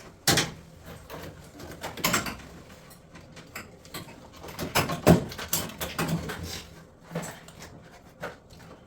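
Irregular knocks and clunks of hard objects being handled, several sharp ones spaced a second or more apart, over a faint steady hum.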